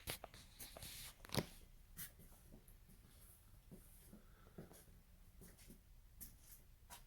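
Near silence: quiet room tone with a scattering of faint taps and scuffs.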